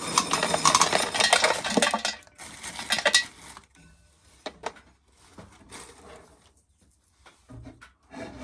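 Corn sheller working an ear of corn: a dense metallic clatter of kernels and mechanism for about three and a half seconds, then a few scattered clicks and knocks as it stops.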